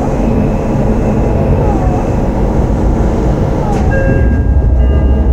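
Onboard running noise of a Shin-Keisei 8900 series electric train: a steady low rumble of the wheels on the rails. After a click about four seconds in, a steady high whine of several tones sets in from the Mitsubishi IGBT VVVF inverter drive.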